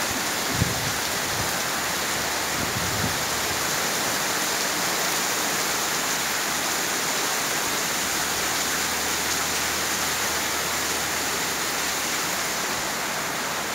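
Heavy rain downpour: a steady, dense hiss of rain falling on wet paving and trees. A few brief low thumps sound in the first three seconds.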